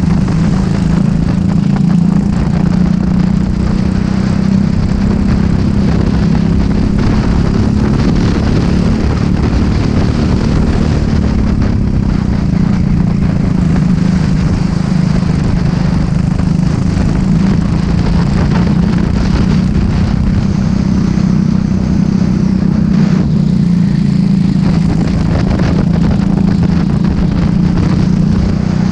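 Racing kart engine running hard and continuously at racing pace, its pitch holding fairly steady with small dips and rises.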